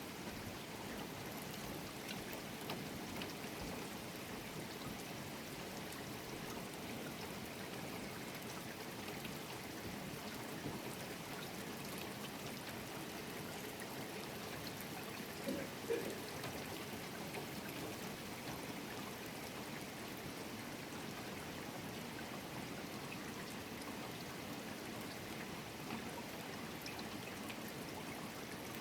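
Steady heavy rain falling, with running and pouring water and scattered drop ticks. A brief louder knock sounds about halfway through.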